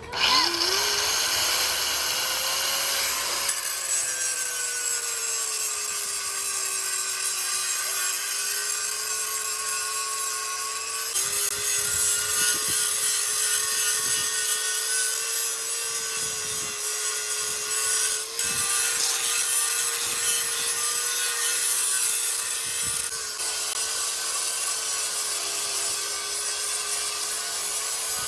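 Electric angle grinder spinning up to a steady high whine and grinding steel bodywork with a harsh, hissing scrape; its pitch sags a little now and then as it is pressed into the metal.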